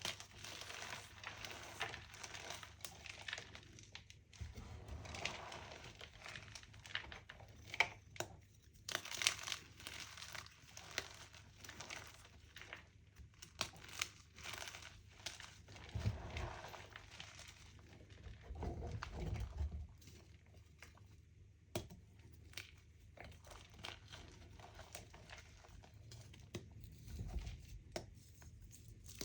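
Crumbly chalk pieces being crushed, a dense run of small crisp crunches and crackles with a few louder snaps about eight and nine seconds in.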